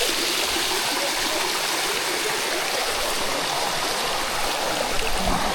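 Water of a limestone cascade waterfall running steadily over the rock: an even, continuous rushing hiss.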